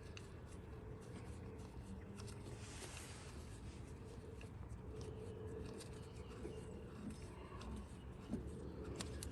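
Faint scratching and light clicks of a bolt being threaded in by hand, over a steady low hum; a sharper click comes near the end.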